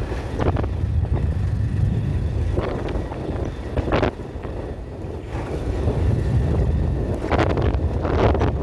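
Wind buffeting the microphone in an uneven low rumble, broken by several brief rushing swishes.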